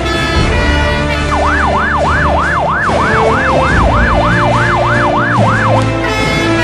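Fire-engine siren in fast yelp mode, sweeping up and down about three times a second. It starts about a second and a half in and stops near the end, over background music.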